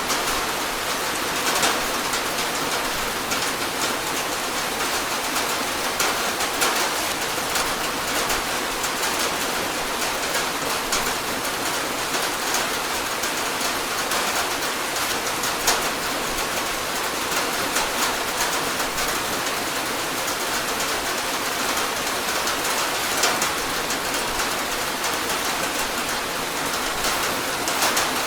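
Rain falling on a tin roof: a steady hiss dense with sharp drop taps, and every few seconds a louder tap stands out.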